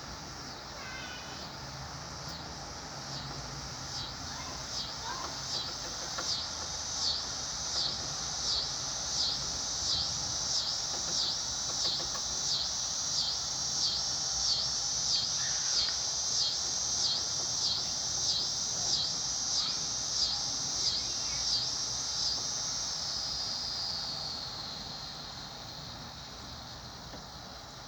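An insect's pulsing buzz, high-pitched and rhythmic at about one and a half pulses a second, swelling up and then fading out near the end.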